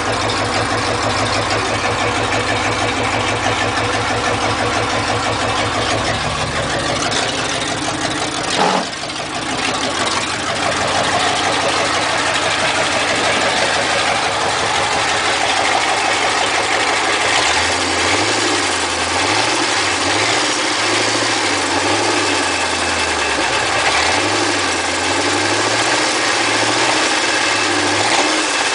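Ford 5.0 fuel-injected V8 running at idle on its first start after the swap into the car. About nine seconds in there is a sudden jolt and the low rumble changes. In the second half the idle rises and falls unevenly, as an engine not yet fully sorted.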